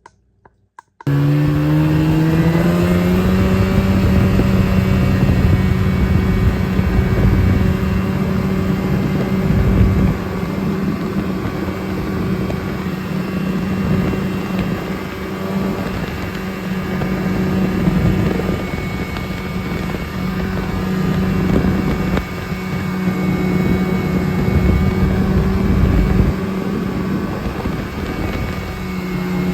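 A motor vehicle's engine comes in suddenly about a second in, climbs in pitch for a few seconds as it accelerates, then runs at a steady pitch over a constant rushing noise.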